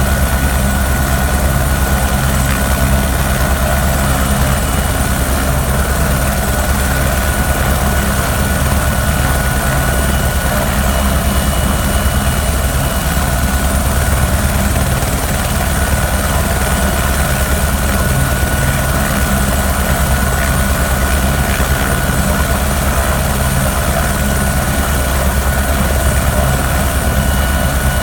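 Police helicopter running steadily, with a fast, even rotor beat and a constant high whine.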